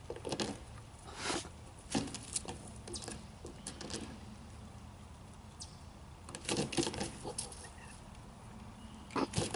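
Young wild turkeys (jakes) close by, making short, irregular sounds: scuffling and flapping with soft clucks, in clusters near the start, a few seconds past the middle and just before the end.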